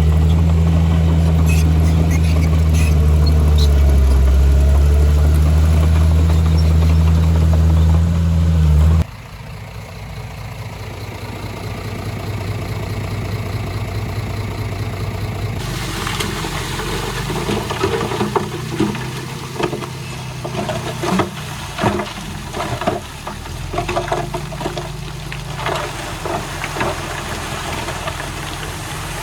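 Heavy diesel engine of earthmoving machinery running with a loud, steady low drone, which cuts off abruptly about nine seconds in. A quieter engine sound follows, and from about halfway on it is broken by repeated sharp clanks and knocks.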